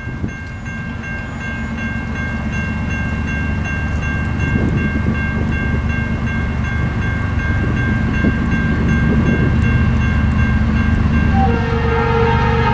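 A diesel train approaching, its low rumble growing steadily louder; near the end the locomotive's horn begins to sound.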